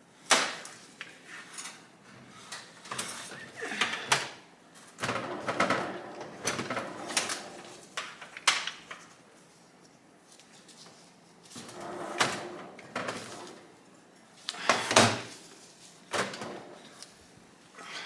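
Irregular sharp clicks and clunks from hand-working the gearshift of a partly stripped 1971 Honda SL125 engine, shifting it between neutral and the gears and turning the shaft, with some scraping of metal parts between them.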